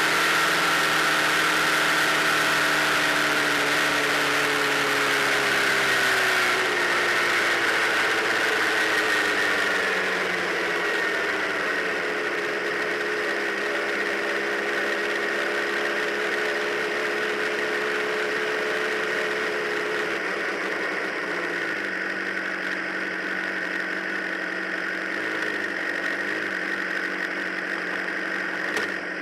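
Honda CBR600RR's inline-four engine running at speed on a race track, with a steady rushing noise. The engine note falls slowly over the first ten seconds, holds steady, then drops lower about two-thirds of the way through.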